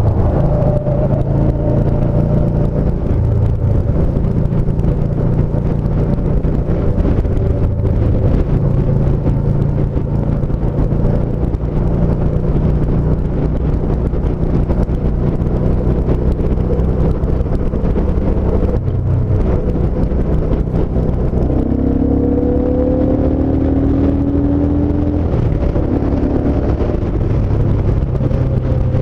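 Yamaha SCR950's air-cooled V-twin running steadily at road speed, mixed with wind and tyre noise. About two-thirds of the way through, a rising whine comes in for a few seconds.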